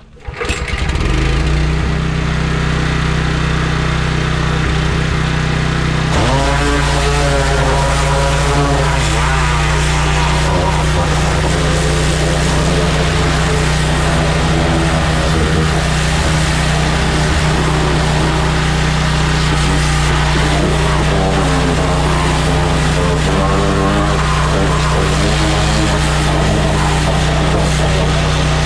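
Pressure washer's small gas engine starting and then running steadily. About six seconds in the sound shifts and a wavering higher sound joins on top.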